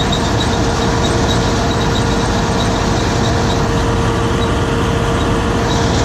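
John Deere 7720 combine running steadily while harvesting wheat: a constant, loud mechanical drone with a steady whine through it.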